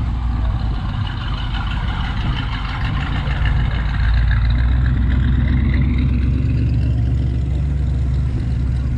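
A car engine running steadily with a low, even hum that grows a little louder about four seconds in.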